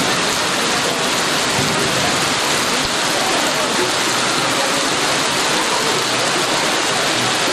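Heavy rain pouring down, a loud, steady, even hiss with no breaks.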